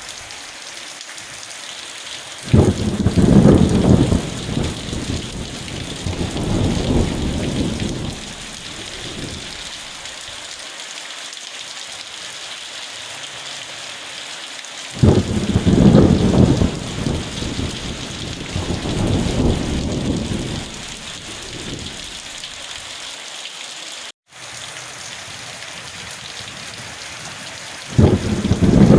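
Steady heavy rain hissing, with rolling thunder swelling up three times, about every twelve seconds, each rumble lasting several seconds. A split-second dropout in the sound comes about two-thirds of the way through.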